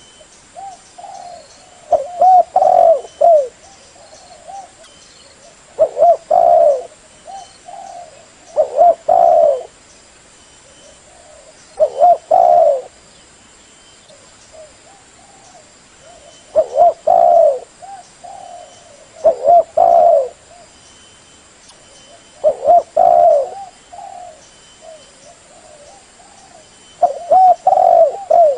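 Spotted dove (cu gáy) cooing as a decoy bird: loud phrases of two or three coos repeated every few seconds, with softer coos between them.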